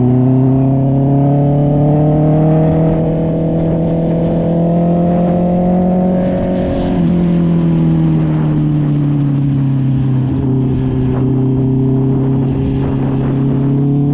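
Honda CB650R's inline-four engine through an SC-Project aftermarket exhaust, riding under throttle. Its pitch climbs steadily for about seven seconds, dips suddenly, eases down over the next few seconds, then holds steady.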